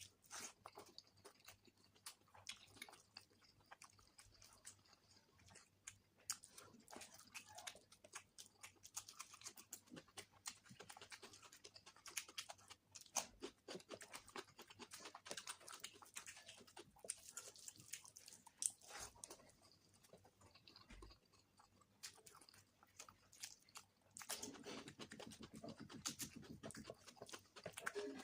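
Close-miked chewing and mouth sounds of a person eating egg curry with rice: a string of small sharp clicks, with a louder, denser stretch near the end.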